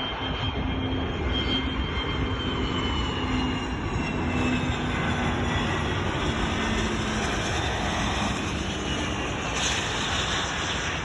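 Jet airliner on landing approach passing by, its engine whine slowly falling in pitch, under heavy wind noise on the microphone.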